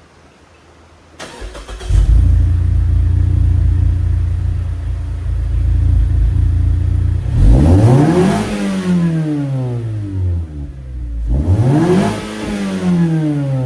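Mazda 3's four-cylinder engine started through a newly fitted MagnaFlow stainless dual-exit catback exhaust: it catches about a second in and settles into a steady idle, then is revved twice, each rev rising sharply and falling back to idle.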